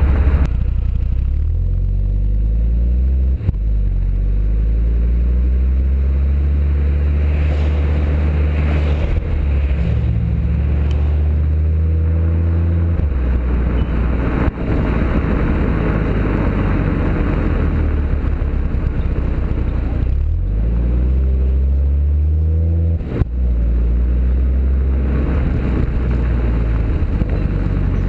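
Audi TT RS's turbocharged 2.5-litre five-cylinder engine, breathing through a decatted sports exhaust, accelerating hard several times. Its pitch climbs repeatedly, with three short breaks in the sound where gears change.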